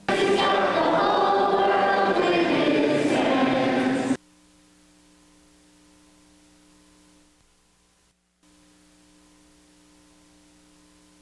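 Choir singing a closing musical sting, which cuts off abruptly about four seconds in. A faint steady hum follows.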